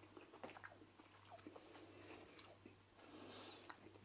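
Faint close-up chewing of a mouthful of breadcrumb-crusted salmon: small, irregular wet mouth clicks over a low steady hum.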